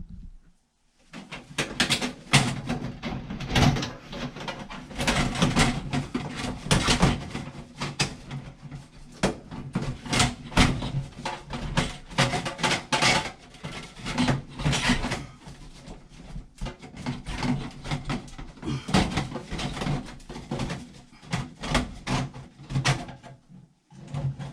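Dryer vent duct parts being handled and fitted back together: a long run of quick knocks, rattles and scrapes of metal ducting.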